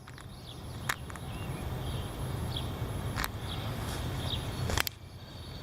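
Wind buffeting the microphone, a steady low rumble that drops out briefly near the end, with three sharp clicks.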